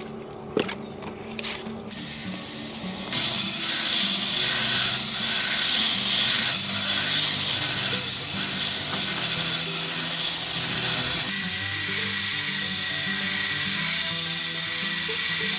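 Background music with a few light taps, then from about three seconds in a loud, steady hiss that stays to the end.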